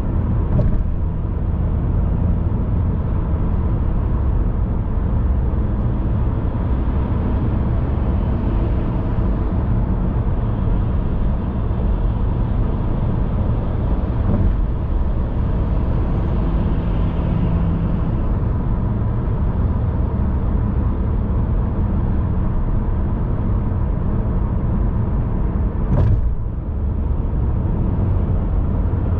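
A car being driven: steady low road and engine rumble with no change in pace, broken by a short knock just after the start and another about 26 seconds in.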